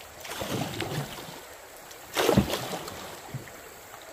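Canoe being paddled through a small river rapid: water sounds and paddle strokes, with one loud sudden hit about two seconds in.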